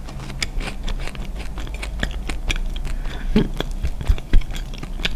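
Close-miked chewing of a soft, air-fried corn-flavoured cookie: a steady run of small, sharp crisp crackles, a light 'shagak-shagak' crispness from the corn kernels inside.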